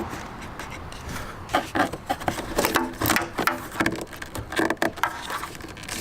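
Motorcycle parts being handled and fitted by hand: a run of clicks and knocks with short squeaky rubbing, starting about a second and a half in and dying away near the end.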